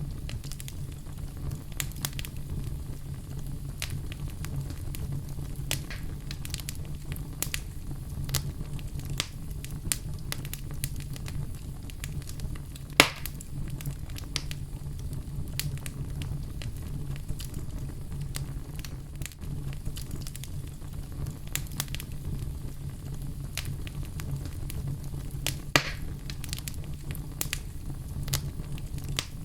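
Wood fire burning in a fireplace, crackling steadily over a low rumble, with two louder pops about halfway through and near the end.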